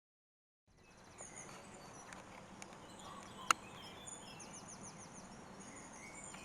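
Dead silence for a split second, then faint outdoor ambience with small birds chirping in the background, including a quick run of repeated chirps about five seconds in. A single sharp click comes about three and a half seconds in.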